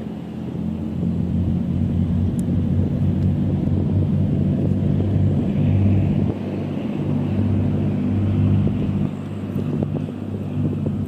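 Twin diesel engines of a 20 m Coast Guard patrol boat running under way, a steady low drone that swells about a second in and dips briefly midway and again near the end.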